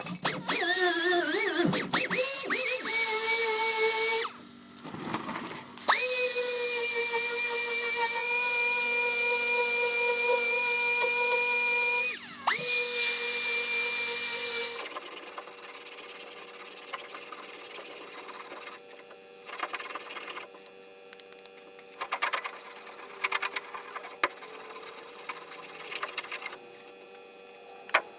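A power tool whining loudly in three runs, the first wavering as it comes up to speed and the next two holding a steady pitch. It is followed by quieter scattered clicks and knocks.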